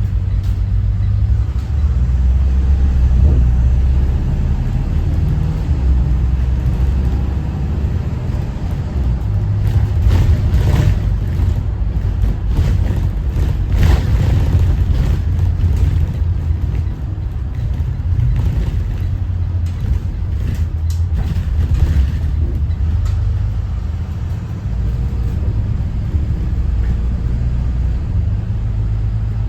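Thomas Saf-T-Liner C2 school bus on the move, its Detroit diesel engine running with a steady low rumble, and a run of knocks and rattles around the middle.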